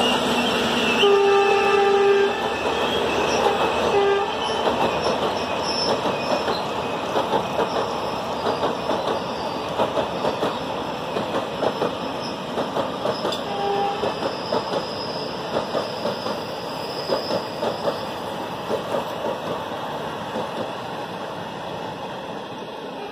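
Passenger train coaches rushing past at speed, wheels clattering rapidly over the rail joints, with short horn-like tones about a second in and again around four seconds. Faint high wheel squeal comes and goes, and the noise slowly eases as the rake passes.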